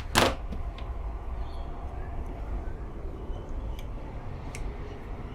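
A short knock just after the start, then a few faint, sharp clicks over a steady low hum: small parts and tools being handled while testing a UPS fuse.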